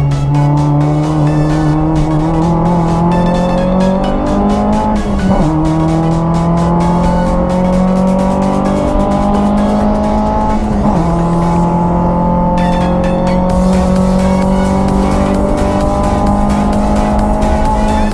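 Renault Clio 172's 2.0-litre four-cylinder engine under hard acceleration on track, heard inside the cabin: the pitch climbs steadily, breaking twice for quick upshifts, about five and eleven seconds in.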